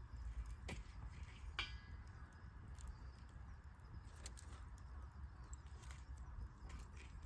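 Wood fire crackling: scattered sharp pops and snaps, a few seconds apart, over a low steady rumble.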